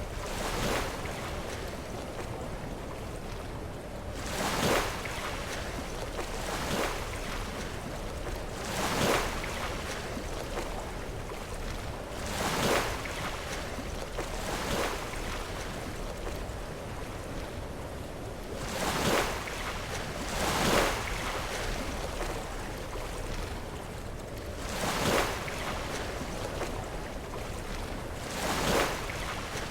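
Sea waves breaking against shoreline rocks, a surge and splash every few seconds over a steady wash of surf, with some wind on the microphone.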